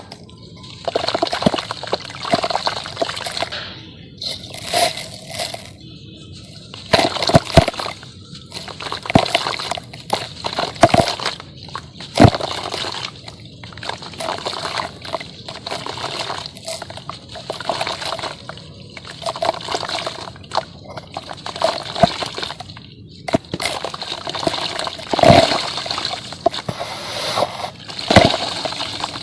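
Chunks of dry sand-cement crumbling and crunching in irregular bursts, with grains trickling. A few sharper cracks stand out.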